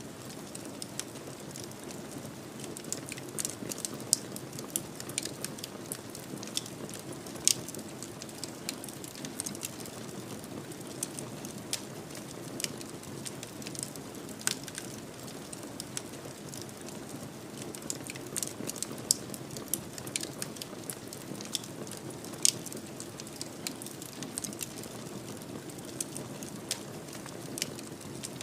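Wood fire burning in a fireplace: a steady low rush of flame with irregular sharp crackles and pops scattered throughout.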